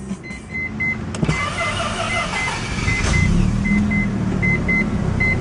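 Small electric motor whirring in a car cabin, like a power window running, with a click about a second in. A high electronic chime beeps on and off throughout.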